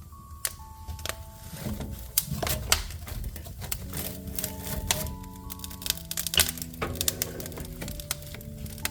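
Wood fire in a fireplace crackling, with many sharp pops and snaps that come thickest in the middle. Soft background music of held notes plays underneath.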